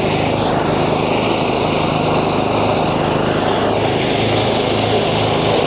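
Engine-driven rice thresher running steadily, its small engine and the threshing drum making a constant mechanical drone.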